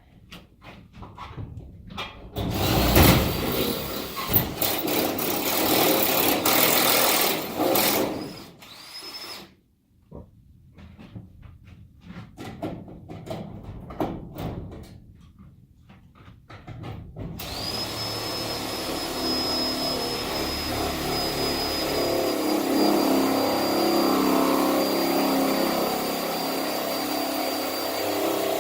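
Power drill boring holes, first in loud, uneven bursts with clicks in between, then running steadily with a high motor whine from a little past halfway.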